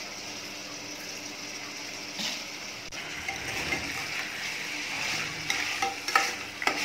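Mutton pieces, onions and ginger-garlic paste sizzling in hot oil in a pressure cooker as a metal spoon stirs them. The spoon scrapes and clinks against the pot a few times, more often near the end.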